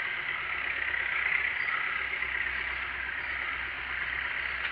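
A steady engine running, with a low hum and a steady hiss over it.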